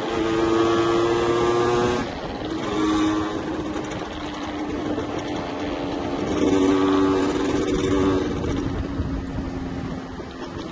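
Yamaha 125ZR's two-stroke single-cylinder engine under way, its pitch climbing, then dropping sharply about two seconds in, with a short blip near three seconds and another pull in the second half before easing off. Wind and road noise rush underneath.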